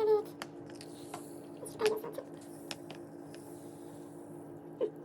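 Soft, sticky squishing with a few light clicks as gummy candy mixture is handled, over a steady low hum.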